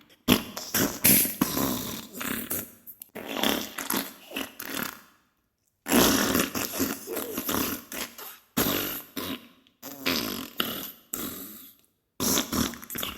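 Diarrhea sound effect: a run of sputtering fart bursts, about six of them, with short pauses between them, including a clean break about five and a half seconds in.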